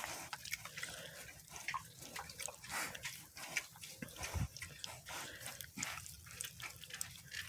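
Mini pigs chewing celery: a steady run of irregular crisp crunching clicks, with one low thump a little past the middle.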